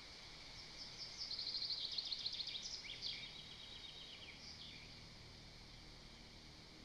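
A small songbird singing one song: a fast trill of high notes, then a lower, slower run of notes ending in a short flourish. It sings over a steady outdoor hiss.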